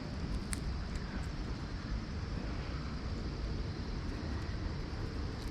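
Steady outdoor background noise: a low rumble with a hiss over it, and a few faint clicks about half a second and a second in.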